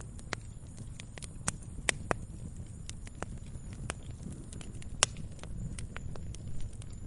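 Campfire crackling: irregular sharp pops and snaps of burning wood over a low steady rumble of the flames, the loudest pop about five seconds in.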